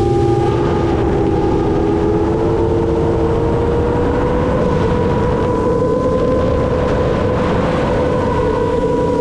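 The brushless motors and 7-inch propellers of an FPV quadcopter running under throttle, a steady whine with rushing noise underneath. The pitch dips slightly at the start, climbs over the next few seconds, then holds.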